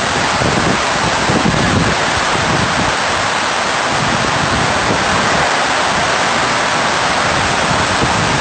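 Heavy rain pouring down onto a flooded stone courtyard and a tarpaulin canopy: a steady, dense hiss. Wind gusts rumble unevenly on the microphone underneath it.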